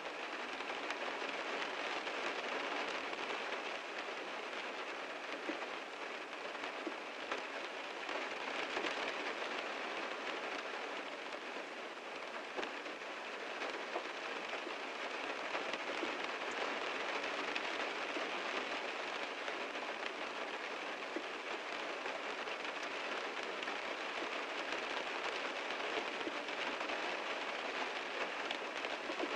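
Heavy rain falling on a car: a steady, dense hiss of rain with many individual drops ticking on the car's surfaces.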